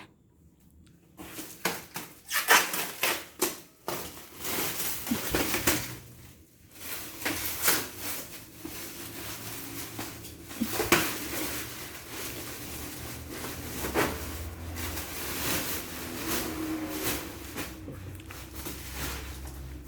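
Irregular knocks, clicks and rustling of objects being handled at close range in a small room.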